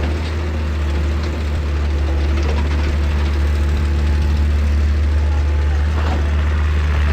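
Heavy excavator diesel engine running steadily with a deep, constant low hum, and faint scattered clatter about six seconds in.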